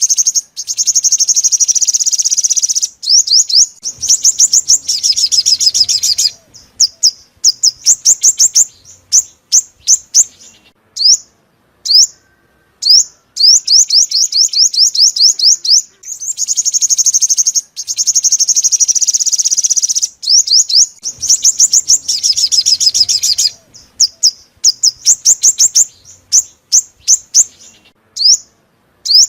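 Sunbird song: very high, fast trills of repeated notes alternating with runs of separate sharp chirps, the same phrase sequence coming round again about halfway through.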